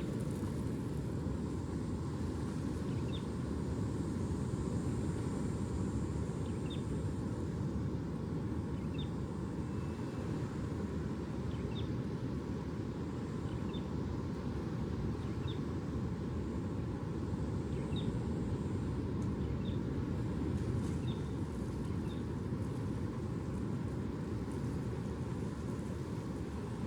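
Distant ocean surf as a steady low roar that does not swell or break into separate waves, with faint short high chirps every second or so.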